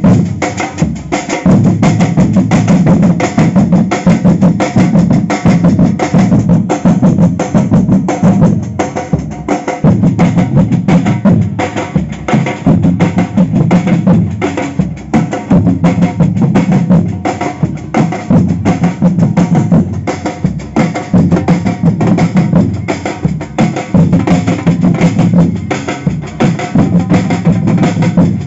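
Samba percussion group playing a loud, driving batucada rhythm: bass drums pounding under snare drums and other percussion in a dense, steady beat.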